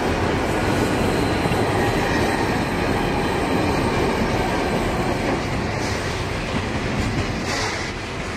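Trailing diesel locomotives of a heavy grain train passing close by, then loaded grain hopper wagons rolling past with a steady rumble and steel wheels clattering on the rails. The level eases slightly near the end.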